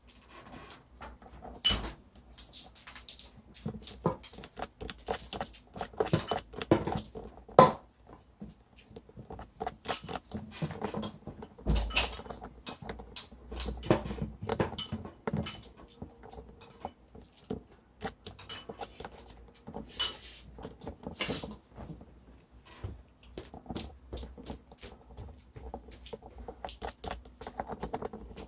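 Spoon clinking and scraping in a metal mixing bowl of bibimbap, in irregular strokes, some ringing briefly.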